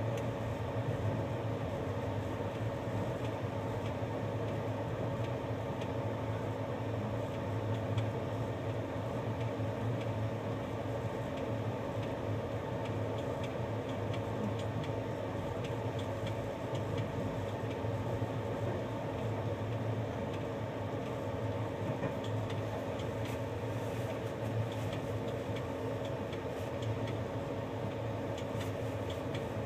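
Steady rumble of a moving passenger train, heard from inside the carriage, with a few light clicks in the last few seconds.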